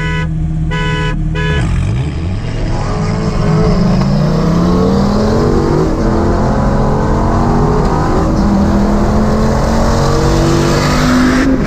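Two short beeps, then a high-performance sports car engine accelerating hard at full throttle. Its pitch climbs, drops back and climbs again through several gear changes.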